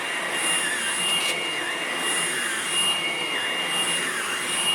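Hoover vacuum cleaner running with a newly fitted brush roll, under test. A steady rushing hiss carries a constant high whine and a second whine whose pitch dips and rises about once a second.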